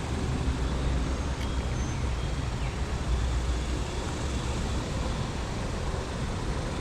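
Steady low rumble of distant road traffic with no distinct events.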